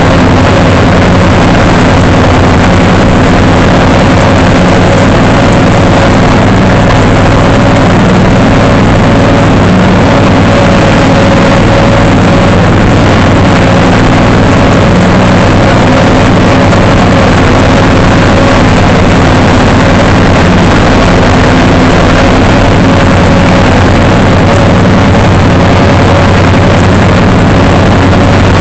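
Zero-turn mower engine running steadily at constant speed, with a steady whine above the engine note.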